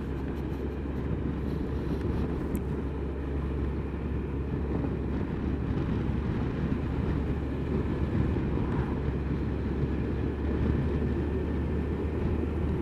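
Honda CBF1000 motorcycle cruising along a road, its engine running steadily under a dense low rumble of wind and road noise.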